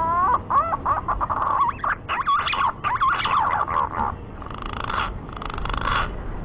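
Green pigeon (punai) call, a recorded hunting lure: a run of whistled notes that glide up and down in pitch, wavering and fluting. About four seconds in it gives way to two short hissy bursts.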